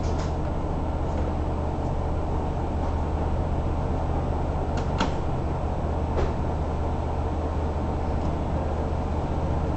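Steady low rumble of a diesel railcar running, heard from inside, with a sharp click about five seconds in and a fainter one a second later.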